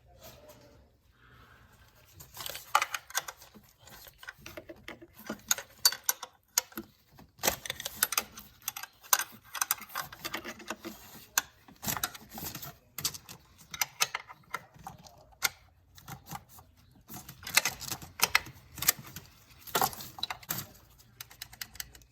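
Irregular clicking and clattering of hard objects being handled, with a faint steady low hum underneath.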